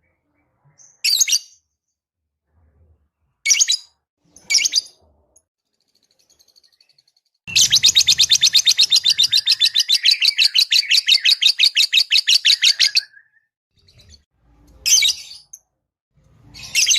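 Lovebird calling: a few sharp single chirps, then one long rapid chattering trill of about eight notes a second lasting some five seconds, then more sharp chirps near the end.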